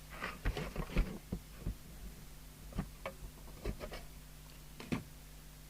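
Steady low electrical hum with a series of short knocks and clicks from handling things on a workbench, bunched in the first second or so, then a few scattered ones.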